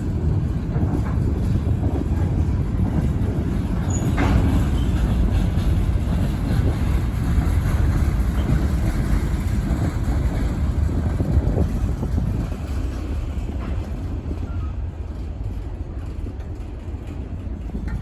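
Wheeling and Lake Erie freight train rolling by, a steady low rumble with a brief squeal about four seconds in; the rumble eases off a little in the last few seconds.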